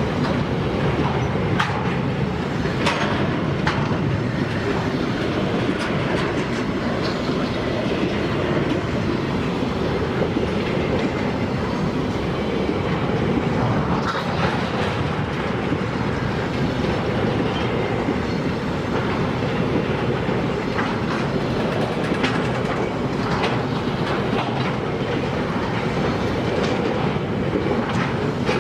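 Freight train wagons rolling steadily past on the rails, with the continuous rumble of the wheels broken by occasional sharp clicks as they cross rail joints.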